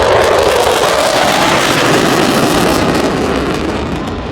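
Eurofighter Typhoon jet passing close by with a loud, crackling roar whose pitch drops as it goes.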